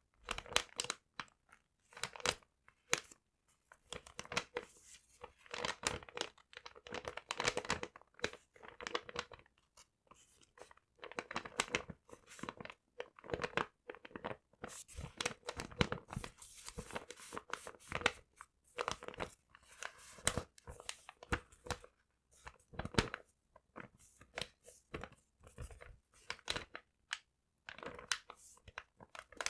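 Paper being crinkled, crumpled and torn: an irregular run of crackles and rustles with a few short pauses.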